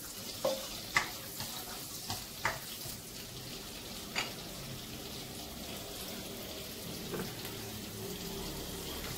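Chopped onions, green chillies and cumin seeds sizzling steadily in hot oil in a nonstick kadai as they are sautéed. In the first few seconds a spatula taps and scrapes against the pan several times, with one more tap about four seconds in.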